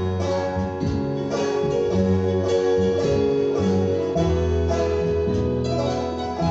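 Live acoustic bluegrass-style gospel band playing, with guitar and banjo picking over sustained notes and a steady low bass line.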